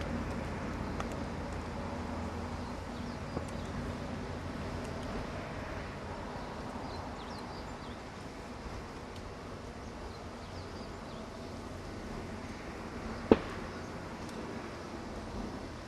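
Outdoor ambience: a steady low rumble that slowly fades, with scattered faint high chirps. A single sharp click comes about 13 seconds in.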